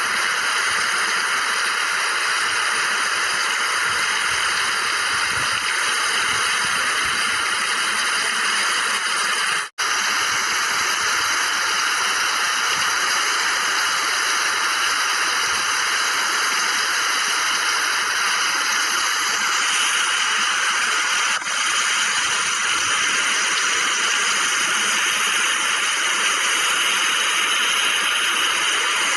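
Heavy rain falling in a steady hiss, with a brief dropout about a third of the way through.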